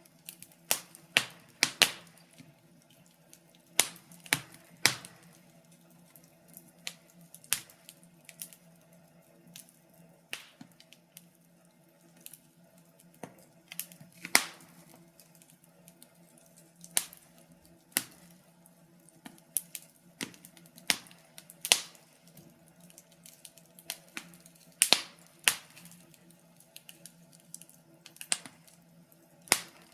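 Wood fire crackling: irregular sharp pops and snaps, a few every couple of seconds, over a faint low steady hum.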